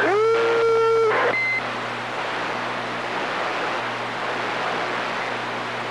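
CB radio receiver: a held tone about a second long, then a short high beep like a roger beep ending a transmission, followed by steady open-channel static hiss with a low hum.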